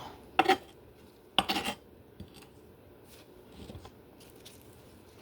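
Kitchenware being handled: two sharp clatters about a second apart, like a utensil or dish knocked against another, then a few faint taps.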